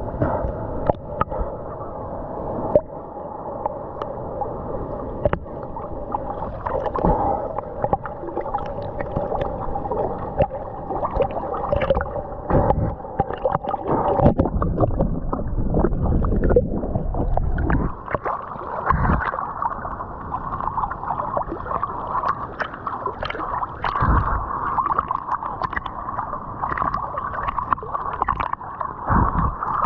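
Ocean water sloshing and gurgling around a swimmer, with many irregular splashes and knocks. A faint steady tone runs under it until about halfway through.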